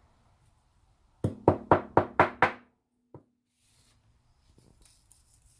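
A spice bottle of dried sage tapped six times in quick succession, about four knocks a second, to shake the fluffy herb out, then one faint click.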